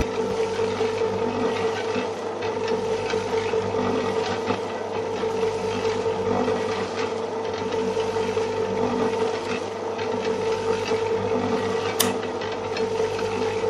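A small electric motor running steadily with a constant whine and a mechanical rattle, with one sharp click about twelve seconds in.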